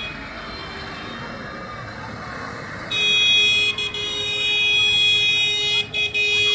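Steady background noise of passing vehicles, then about three seconds in a loud vehicle horn blares on one steady note, held for around four seconds with two brief breaks.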